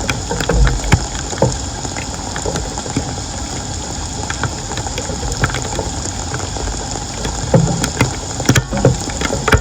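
Floodwater running and splashing, a steady rush with scattered short splashes and knocks.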